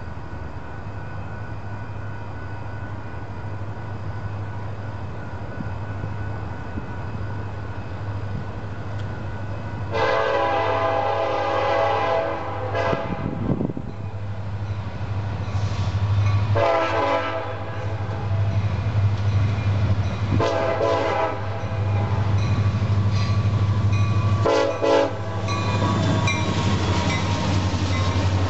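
Union Pacific freight train approaching, its diesel locomotives rumbling low and slowly growing louder. The multi-tone air horn sounds four blasts from about a third of the way in: two long, then two short. Near the end the locomotives pass close, with wheel and rail noise.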